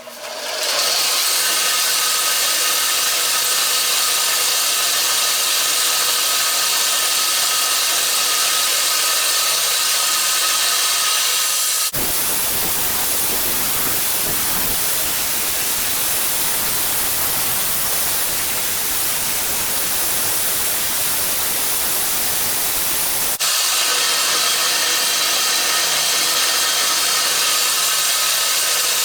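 Power grinder running with a steel knife blade held to it to clean up the bevels: a loud, steady grinding hiss over a faint motor whine. About twelve seconds in the sound abruptly turns into a fuller, rougher rush, and about eleven seconds later it switches back just as abruptly.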